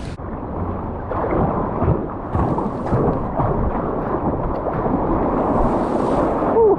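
Muffled, rumbling rush of wind and choppy sea water around a sea kayak, with a few dull thumps. Near the end, a brief falling cry.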